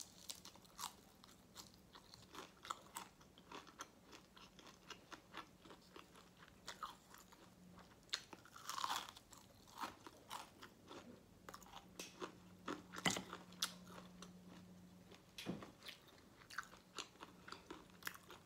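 Close-miked chewing of crispy fried chicken, a steady run of small crunches several per second, with a denser crunching bite about nine seconds in and the loudest crunch about thirteen seconds in.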